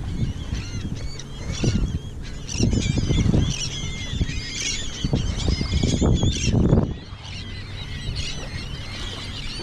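A dense flock of seagulls calling, many short overlapping cries all the way through, with a low rumbling that swells and fades in gusts.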